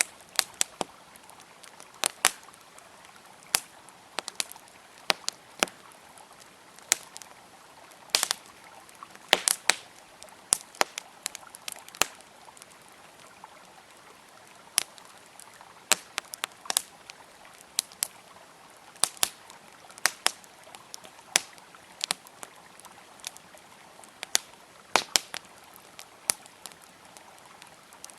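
Wood fire crackling, with sharp pops at irregular intervals, over the steady rush of a flowing river.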